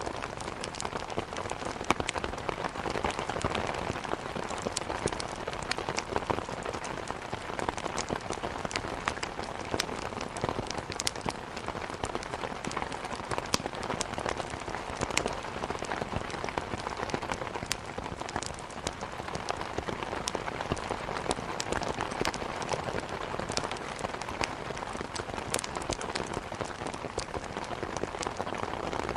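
Steady heavy rain, with frequent sharp crackles and pops from a burning wood fire scattered through it.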